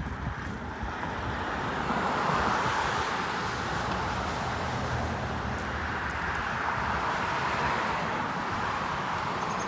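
Steady rushing road noise, like traffic going by, mixed with wind on the microphone while cycling, swelling slightly a couple of seconds in.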